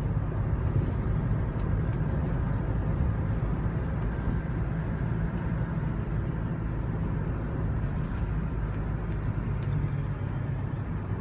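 Steady engine and road rumble heard from inside a moving vehicle's cabin.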